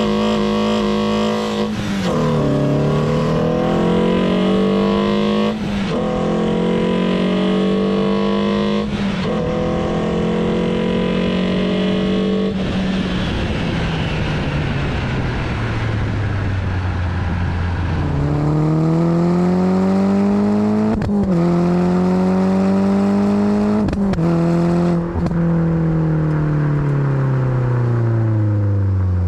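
Renault Sandero R.S.'s 2.0-litre four-cylinder engine pulling hard through the gears: the revs climb and drop back sharply at each of four upshifts, then fall away slowly as the throttle is lifted. About two-thirds of the way in, the revs rise again through three more shifts before falling off near the end.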